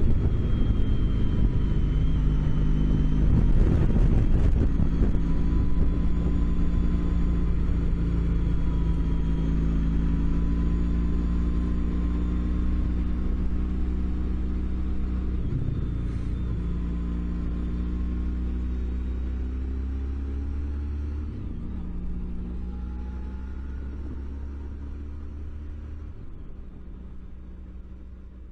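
A motor vehicle engine running steadily, its pitch shifting a few times, and gradually fading away.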